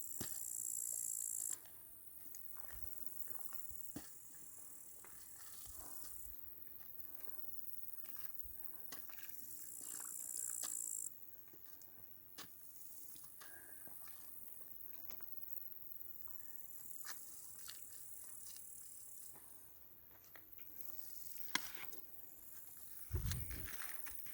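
Crickets trilling in high, shrill bouts that swell loud at the start and again about ten seconds in, fading down in between. Scattered light clicks, and a dull thump near the end.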